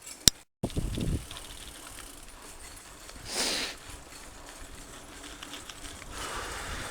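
Mountain bike riding a dirt trail: tyre noise and low rumbles from the ground, with a sharp click and a brief cut-out near the start and a short rushing noise about three and a half seconds in.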